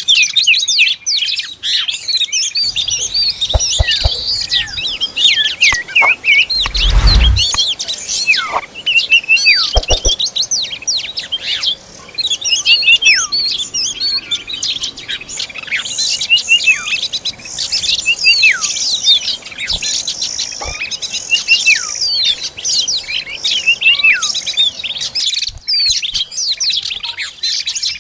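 Oriental magpie-robins (kacer) chirping and calling continuously, many quick overlapping downward-sweeping chirps. A dull thump comes about seven seconds in.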